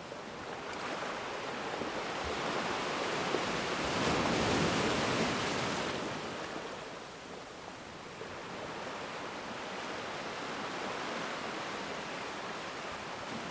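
Ocean waves breaking and washing on a shore, one wave swelling to its loudest about five seconds in and then easing back into a steady wash.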